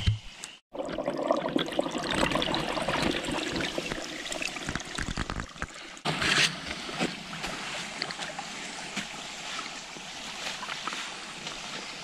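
Water trickling and running underground, beneath the rocks and forest floor, heard through the ground, with crackling footsteps over dry leaf litter and needles. The sound cuts out briefly just after the start.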